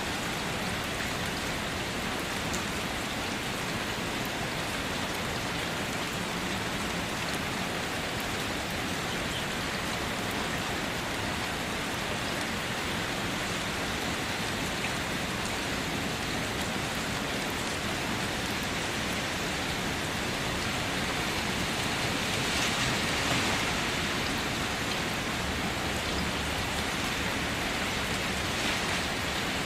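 Heavy rain falling steadily: a constant hiss that swells a little about three-quarters of the way through.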